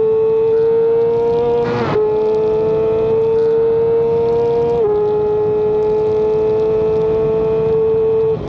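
Racing motorcycle engine at full throttle, its high steady note climbing slowly, with quick upshifts about two seconds in and about five seconds in. Just before the end the throttle closes and the note falls away.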